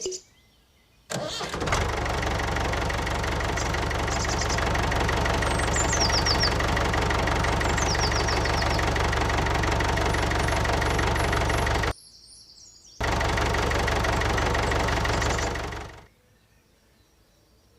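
A small engine running steadily with a fast, even chug. It stops abruptly for about a second partway through, then starts again and fades out near the end.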